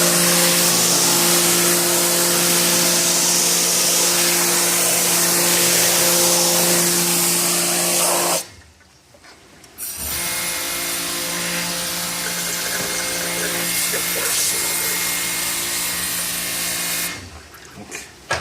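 A motor-driven machine running with a steady hum and a loud hiss. It stops about eight seconds in, starts again a second and a half later, and stops near the end.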